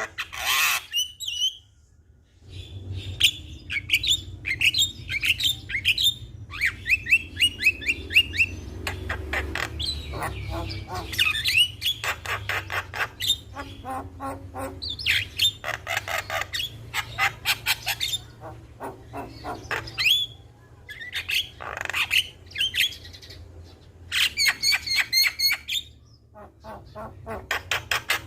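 Javan myna calling without pause: a varied run of rapid chattering, repeated falling whistles and harsh squawks, broken by short gaps. A low steady hum sits underneath from about two seconds in.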